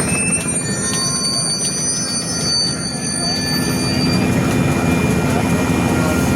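Train passing close by: a steady, churning rumble of wheels on rail, with several thin, high, steady ringing tones over it.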